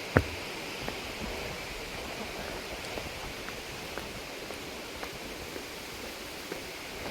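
Mountain stream rushing steadily over rocks. A few sharp knocks are scattered through it, the loudest just after the start.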